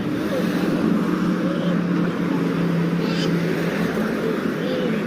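A motor vehicle running close by in street traffic: a steady low drone that eases off about three seconds in.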